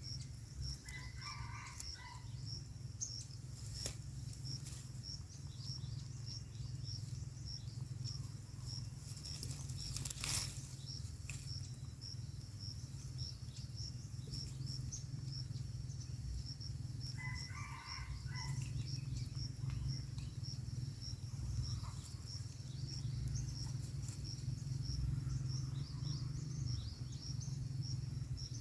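Insect chirping steadily, a high pulse repeating about twice a second, over a steady low rumble. Two brief lower calls break in, one about a second in and one near eighteen seconds.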